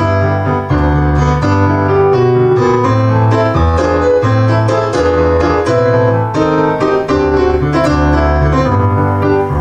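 Piano playing an instrumental interlude in a Russian romance between sung lines, with a moving bass line under a melody of struck notes.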